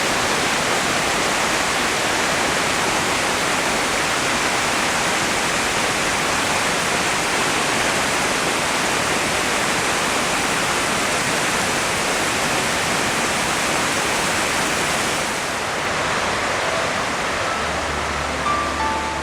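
Steady, loud rush of a tall waterfall plunging, an even roar of falling water with no let-up. The sound dulls slightly near the end, and soft background music with sustained notes fades in over it.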